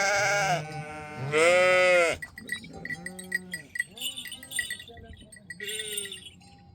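A flock of sheep bleating: two loud bleats in the first two seconds, then fainter bleats. A small livestock bell clinks rapidly, about four or five times a second, from a couple of seconds in.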